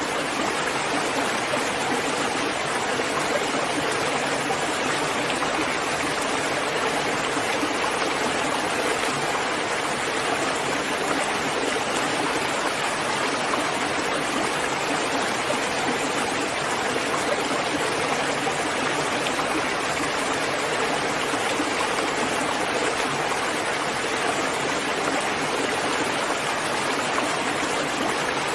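Steady rain falling, a dense even hiss with no single drops or other sounds standing out.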